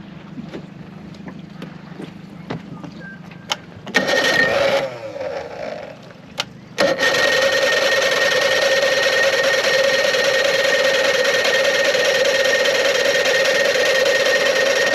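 The ignition key being tried on an old outboard motor. A short loud burst about four seconds in fades away. Then, about seven seconds in, a loud steady buzzing tone starts suddenly and holds without change.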